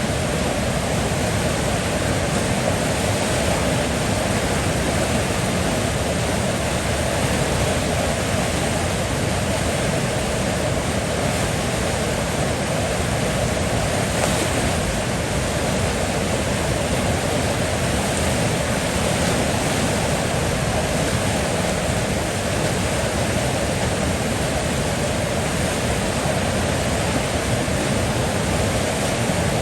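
Steady rushing of flowing river water, an even, unbroken wash of noise.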